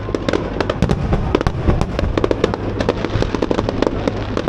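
Fireworks display: a dense, continuous run of sharp cracks and bangs, many each second, over a steady low rumble.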